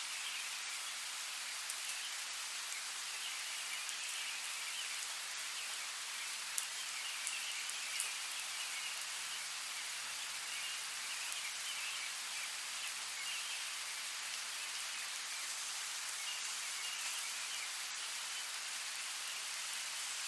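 Steady rain falling, an even hiss with a few louder single drops ticking close by.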